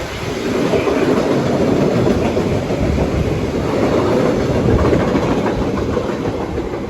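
Freight train wagons rolling past, a steady loud rumble of steel wheels on the rails with clickety-clack over the joints. The wagons are car-carrier wagons loaded with new cars.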